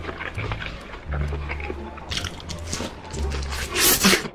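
Close-miked eating of a whole slab of roasted pork belly: crackly chewing with a loud crunching bite near the end. Background music with a low, repeating bass line plays underneath.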